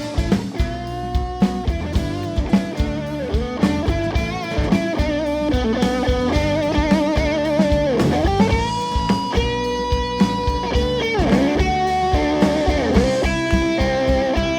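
Live soul-rock band in an instrumental break: an electric guitar solo of bent, wavering held notes over drums and bass.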